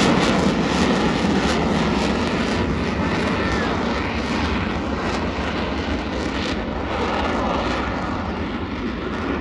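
Engine noise of a fixed-wing display aircraft flying past, a dense steady noise that is loudest at the start and eases off slightly.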